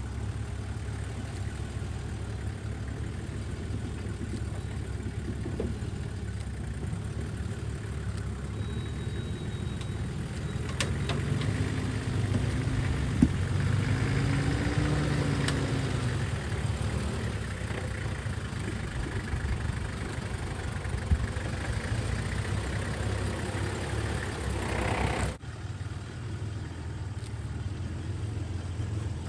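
A four-wheel-drive vehicle's engine running while driving off-road. The engine note rises and falls in pitch around the middle, and the sound changes abruptly about 25 seconds in.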